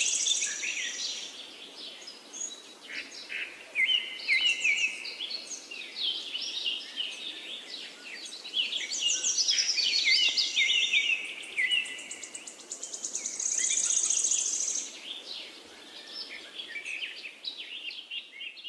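Several birds chirping and singing, with many short quick notes and a high, fast trill that comes back every few seconds.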